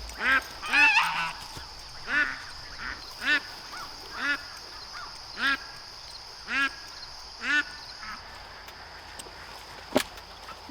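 Domestic goose honking in a steady series, about eight short calls roughly a second apart that stop a couple of seconds before the end.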